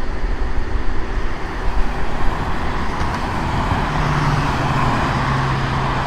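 Rough, gusty low rumble, then from about two-thirds of the way in a steady engine drone with a low hum grows louder.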